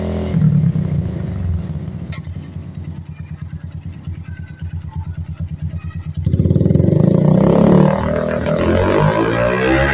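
Suzuki Shogun Axelo 125 single-cylinder four-stroke motorcycle engine running through a Yoshimura aftermarket exhaust. It settles to a loping idle with each exhaust pulse separate, then is revved sharply for a second or two about six seconds in, then blipped up and down again near the end.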